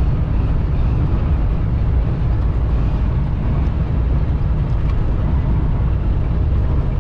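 Steady drone inside a semi-truck cab at highway speed, the diesel engine rumbling under tyre and wind noise, with the truck and its lightly loaded trailer being pushed around by strong crosswinds.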